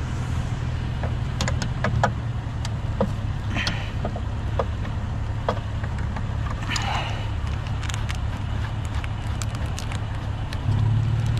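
Scattered metal clicks and clinks of hand tools working on scrap, with two short rasping sounds, over a steady low engine hum that grows louder near the end.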